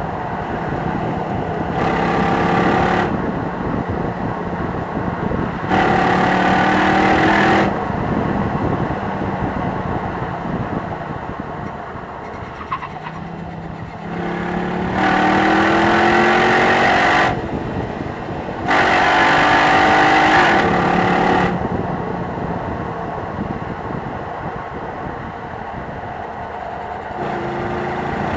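Jeep Grand Cherokee SRT8's 6.1-litre Hemi V8 on the move, opening up four times with a rising engine note for two to three seconds each, then dropping back to a steadier, lower run in between.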